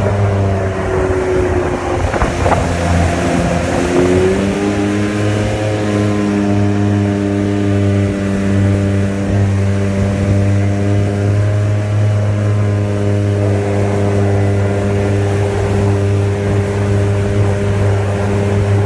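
Jet boat engine running, its pitch sagging about two seconds in, climbing back over the next couple of seconds, then holding steady.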